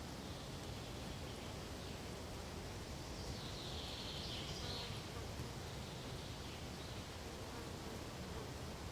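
Pine forest ambience: a steady rustling hiss of wind through the needles, with a high, wavering buzz for about two seconds near the middle.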